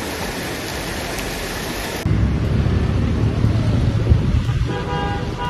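Heavy rain hissing for about two seconds, then an abrupt cut to a loud low rumbling noise of wind and water in a flooded street, with a steady pitched tone joining near the end.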